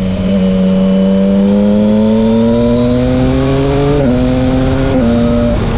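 Yamaha Tracer 900 GT's three-cylinder engine through an SC Project straight-pipe exhaust, under way and accelerating. The revs climb steadily for a few seconds, then the pitch drops abruptly twice, about four and about five seconds in, at gear changes.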